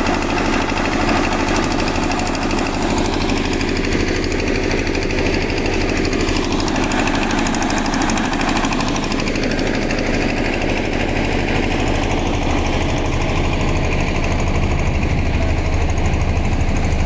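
Road roller's diesel engine running steadily at close range, with a fast, even clatter.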